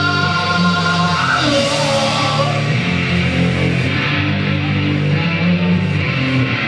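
Live rock band playing heavy, guitar-driven music, with held chords that change about a second and a half in.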